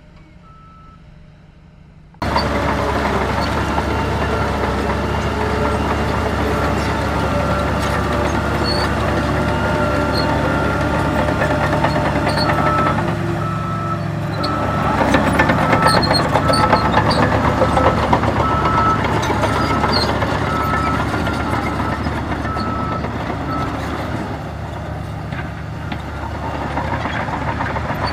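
Heavy diesel earthmoving machinery running loudly, cutting in suddenly about two seconds in. Through the middle a reversing alarm sounds a steady run of evenly spaced beeps for around ten seconds.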